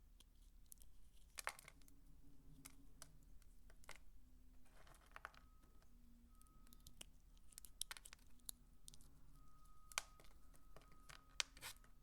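Dry soap shavings crackling and crunching as they are handled: a scatter of soft crackles and sharp little clicks at an irregular pace, with two sharper clicks near the end.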